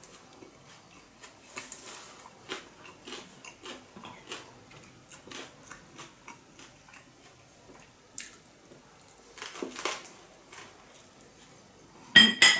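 Close-up mouth sounds of someone biting and chewing a fresh rice-paper spring roll filled with herbs and vegetables: soft wet clicks and crunches throughout, a few sharper ones later on, and a loud crunching bite near the end.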